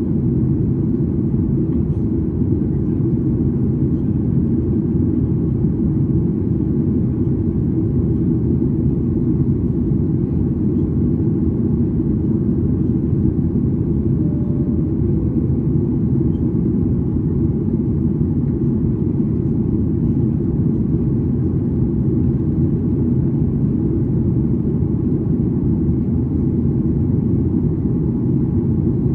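Steady low rumble of a Boeing 737-800's engines heard from inside the passenger cabin.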